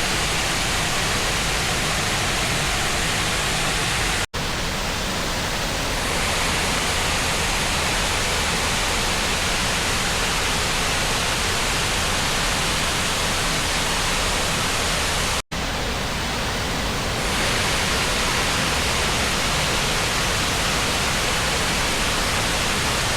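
Huai Mae Khamin waterfall's fourth tier: water cascading over limestone steps, a loud, steady, even rush. It cuts out for an instant twice, about four seconds and fifteen seconds in.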